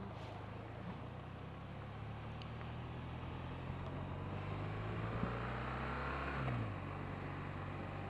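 BMW R1200RT's boxer-twin engine running under way at road speed, its note climbing slightly and then dropping sharply about six and a half seconds in.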